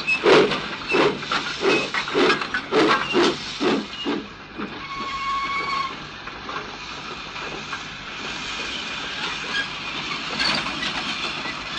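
Steam locomotive puffing, about two chuffs a second, which stop about four seconds in and give way to a steady hiss of steam as the engine stands at rest.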